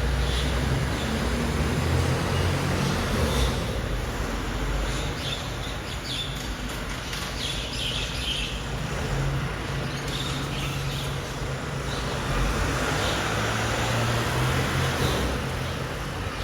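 Mercedes-Benz Arocs garbage truck's diesel engine running with a steady low hum that swells slightly near the end, with birds chirping faintly.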